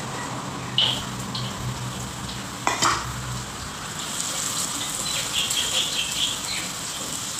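Chicken frying in oil in a wok, sizzling steadily while a utensil stirs it. There is a sharp knock of the utensil on the wok nearly three seconds in, and the sizzle grows more crackly in the second half.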